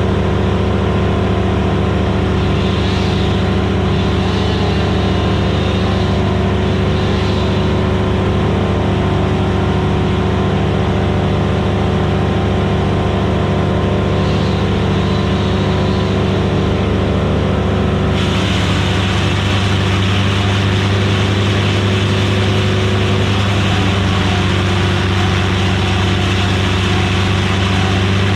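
Vermeer BC1000XL gas wood chipper running steadily at speed. About 18 seconds in, the sound turns abruptly harsher, with a loud hiss laid over the engine.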